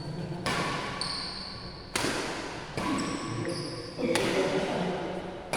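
Badminton rally: sharp racket-on-shuttlecock smacks every second or so, five in all, ringing in a large hall, with short high shoe squeaks on the court floor between hits and voices in the background.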